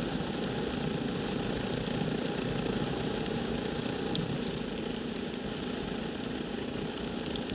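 Single-cylinder engine of a Yamaha XT660Z Ténéré motorcycle running steadily, with a constant rush of noise over it.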